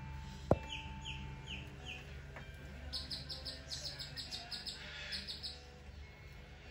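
A sharp knock about half a second in, then birds chirping: about five short falling notes, followed by a fast run of about a dozen higher chirps.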